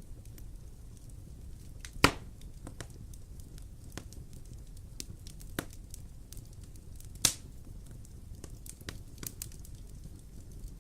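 Wood fire burning in a fireplace: a low steady rumble with scattered crackles, and two loud sharp pops, about two seconds in and about seven seconds in.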